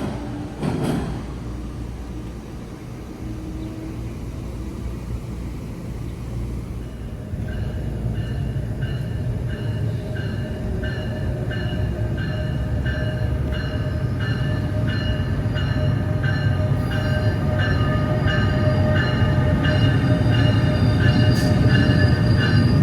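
Commuter train rumbling closer and growing steadily louder, with a high-pitched squeal of several tones that pulses on and off rhythmically from about a third of the way in.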